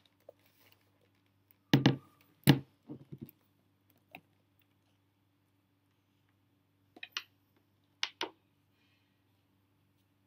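Plastic memory-bay cover of a laptop's underside being set back in place and pressed down: a few sharp plastic clicks and knocks, two loud ones about two seconds in and a few lighter ones near the end, over a faint steady hum.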